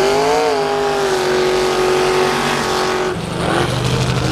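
High-powered race truck engine revving: the revs climb quickly, hold steady and high for about three seconds, then drop to a lower, deeper note.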